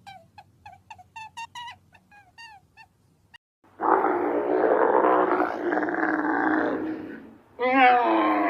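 Animal calls: a quick run of short, falling chirps, then a loud, rough, growling call lasting about four seconds, followed near the end by a shorter wavering cry.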